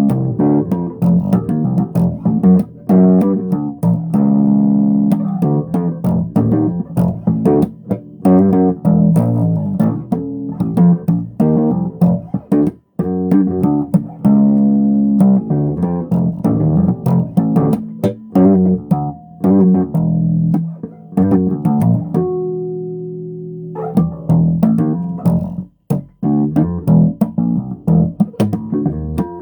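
Bass guitar played solo: a continuous run of plucked notes, with one note left ringing and fading about 22 seconds in before the playing picks up again.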